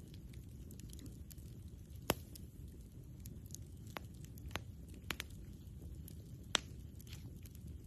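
Campfire crackling, with scattered sharp pops, the loudest about two seconds in and again near the end, over a low steady rumble.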